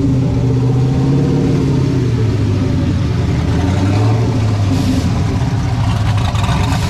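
A car engine running at low revs as the car creeps forward, its note rising and falling a little a few times.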